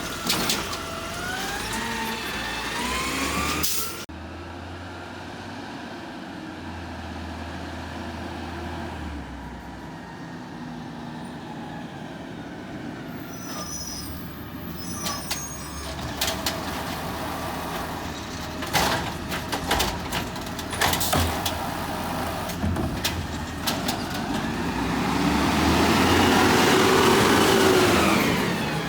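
Garbage truck working: its diesel engine revs up, then runs lower. A string of sharp clanks and knocks comes about two-thirds of the way through, and near the end the engine revs up and back down again.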